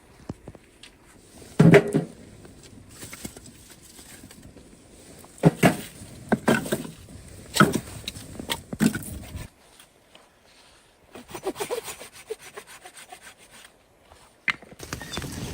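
Irregular scraping strokes, with separate bursts about a second apart and then a quicker run of short strokes near the end.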